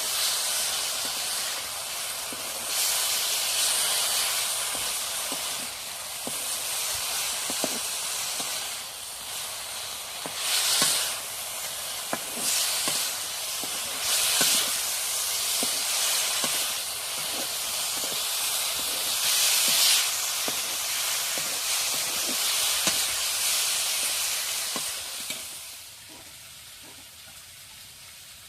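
Food frying in hot oil in a cooking pan, with a steady high sizzle that surges several times, and light clicks and scrapes of stirring. The sizzle drops away near the end.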